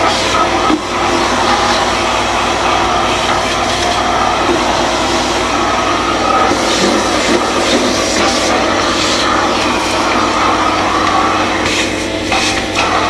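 Kärcher MV 6 P Premium wet-and-dry vacuum cleaner running steadily, with a few short knocks along the way.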